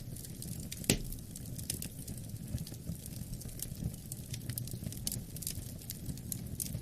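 Wood fire crackling: frequent small pops and clicks, with one louder pop about a second in, over a steady low rumble.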